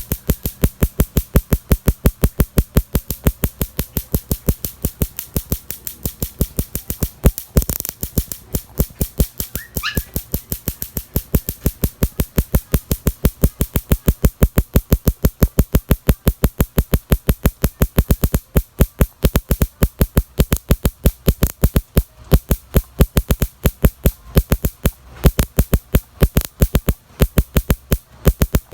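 Miniature Raider 150 motorcycle making a steady run of sharp pops, about five a second, with one louder backfire crack about eight seconds in.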